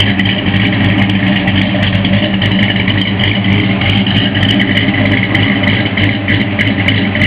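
1965 Ford F100's 1995 Mustang Cobra 5.0 V8, bored .040 over with a B303 cam, idling steadily through headers and a 2.5-inch exhaust with an H-pipe.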